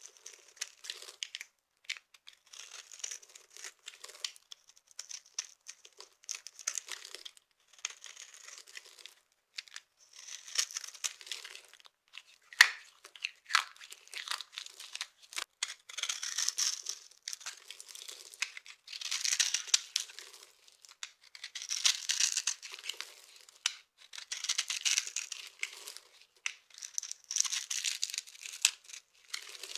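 Dry, brittle soap being crushed, crackling and crunching in a run of bursts about a second long with short pauses between. Near the middle there is one sharp snap, the loudest sound.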